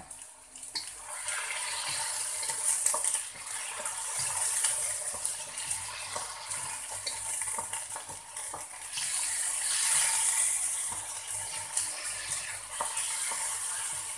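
Chicken stir-frying in hot oil in a wok, sizzling while a spatula stirs and scrapes it, with small taps against the pan. The sizzle rises and falls several times.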